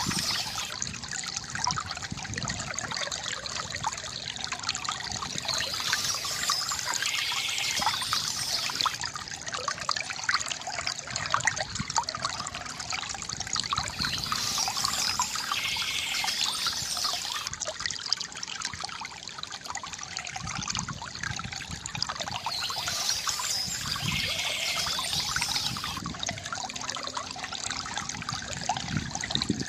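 Stream water trickling and splashing steadily over stones. A brief higher-pitched sound returns about every eight to nine seconds.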